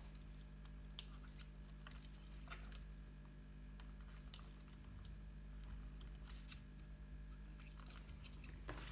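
Faint clicks and small handling noises of plastic servo and ESC plugs being pushed onto the pins of a small RC receiver, with one sharper click about a second in, over a low steady hum.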